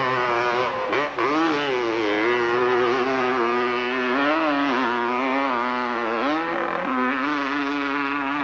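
Hillclimb motorcycle engine revving hard on a run up the hill, its pitch wavering up and down as the throttle is worked, with a sharp dip about a second in and a drop to a steadier lower note past the six-second mark.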